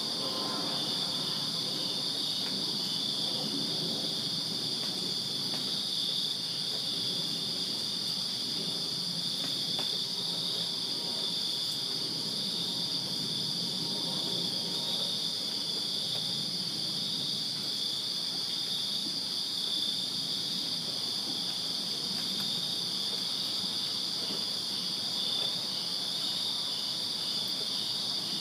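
A chorus of crickets chirping steadily on a summer night: a continuous high trilling, with fainter low background noise beneath.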